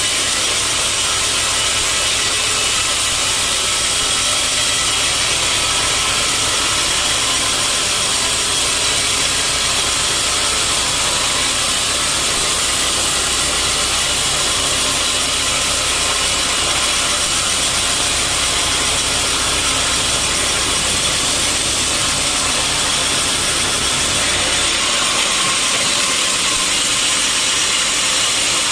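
Sawmill blade cutting steadily through a large mahogany log, with the mill's motor running under it. The low hum of the motor drops away near the end while the cutting noise goes on.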